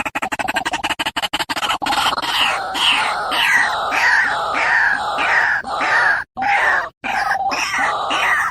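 White-breasted waterhen (ruak-ruak) lure call. A rapid pulsing chatter gives way about two seconds in to a string of harsh notes, each falling in pitch, about two a second, with two short breaks near the end.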